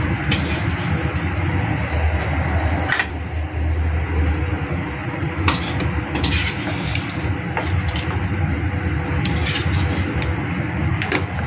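Steady, rumbling noise of food cooking in a pan over a gas flame, with a few sharp clicks and scrapes of a utensil against the pan.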